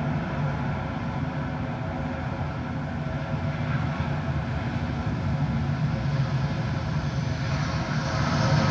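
Jet airliner's engines droning steadily, growing louder and brighter near the end as the aircraft comes closer.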